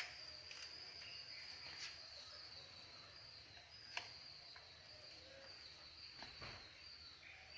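Faint high-pitched insect trilling, steady with short breaks, with a couple of sharp clicks at the start and about four seconds in.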